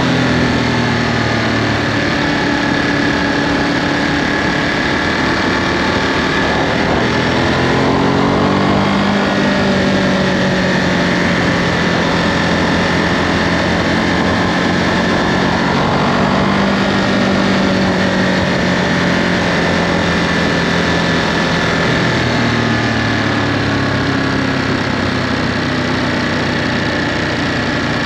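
Ducati Monster 937's 937 cc Testastretta V-twin running through its stock Euro5 exhaust while the bike is ridden. The engine pitch dips at the start, climbs about a quarter of the way in, then holds steady at a cruise with a couple of smaller pitch changes later on.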